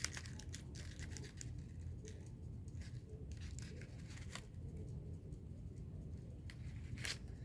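Faint rustles and scattered clicks of a paper craft being handled and worked by hand.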